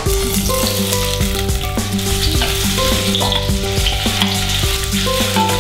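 Diced carrots sizzling steadily in hot oil in a pan as they are tipped in and fry.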